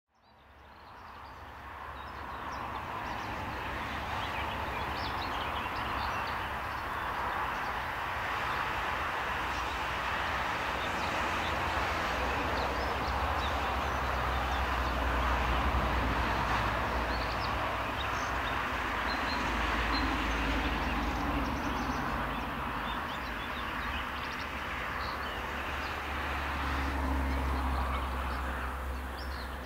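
A train rumbling along the track at a distance: a steady noise that swells and eases, with small birds chirping over it.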